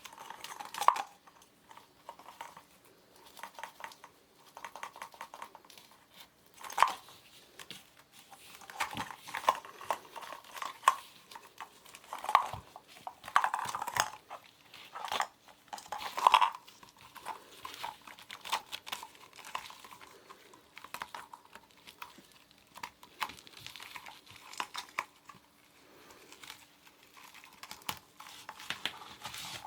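Kittens playing with toys: irregular taps, scratches, rattles and crinkles of paws and small toys, with a few louder knocks.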